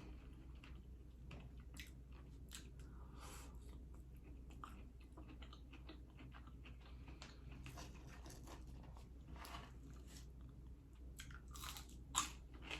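Close-miked eating: faint chewing and biting with scattered short wet mouth clicks, and one louder click near the end.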